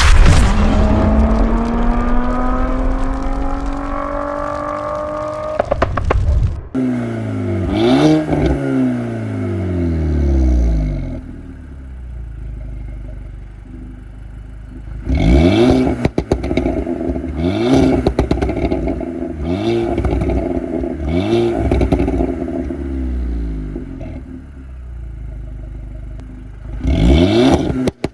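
VW Golf 5 GTI's 2.0 TFSI four-cylinder engine pulling up steadily for about six seconds, then dropping off with clattering pops from the exhaust, followed later by a series of quick rev blips about every two seconds, each falling back with crackles. The crackles come from an engine map tuned for deliberately extreme overrun pops and bangs.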